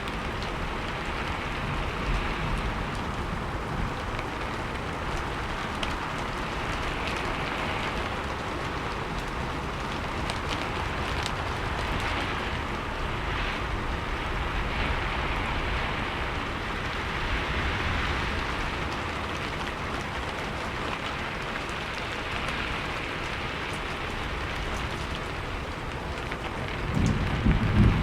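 Steady rain falling, an even hiss of drops on a surface. Near the end a loud, low rumble of thunder rises.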